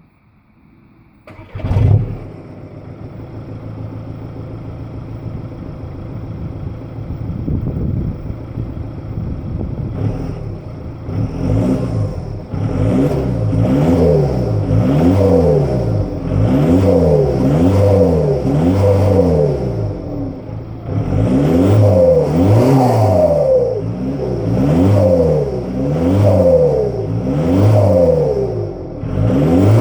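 Skoda Octavia 2's 2.0 TDI (BKD) four-cylinder diesel with a straight-pipe exhaust starting about a second and a half in, then idling. From about ten seconds in it is revved over and over in short blips, the pitch rising and falling with each one.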